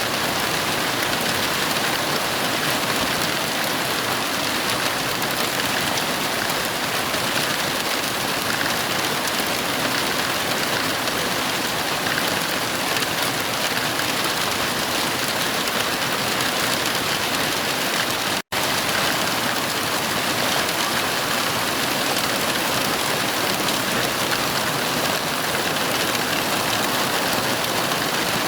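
Heavy rain falling steadily, an even hiss with no thunder. It cuts out for an instant about two-thirds of the way through.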